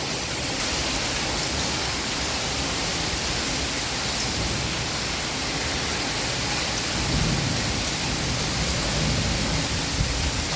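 Heavy summer rain pouring down in a steady hiss, with a low rumble swelling briefly about seven seconds in.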